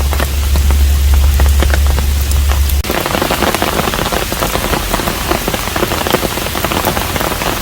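Steady rain at a hanok, with individual drops striking close by. A low hum sits under the first three seconds. About three seconds in, the sound cuts abruptly to denser, heavier rain and the hum is gone.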